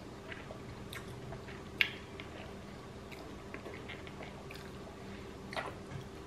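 A person chewing sushi close to the microphone, with scattered small wet clicks and smacks. The sharpest one comes about two seconds in, over a faint steady hum.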